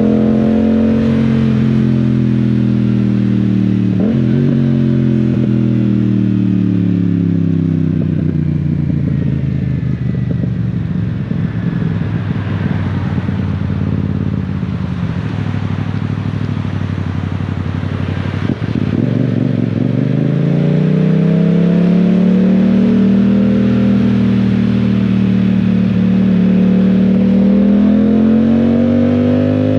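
Yamaha Tracer 700's 689 cc parallel-twin engine under way: revs falling at the start, running low through the middle, then rising steeply about two-thirds in and holding steady. An even hiss of rain and wind lies underneath.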